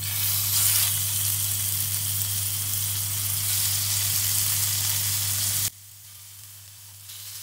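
Marinated chicken pieces sizzling as they are spooned onto a hot, oiled non-stick grill pan. The sizzle drops suddenly to a fainter level about six seconds in.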